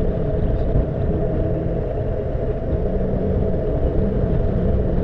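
Honda CBF motorcycle running along the road: a steady, loud engine and wind rumble picked up by an action camera's microphone.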